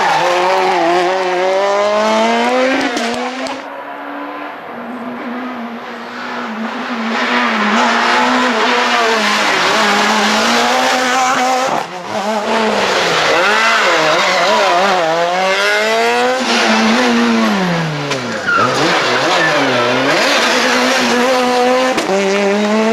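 Super 2000 rally cars' naturally aspirated two-litre four-cylinder engines revving hard at speed, the pitch climbing and dropping again and again as the drivers shift gears and lift for corners, over a few successive passes.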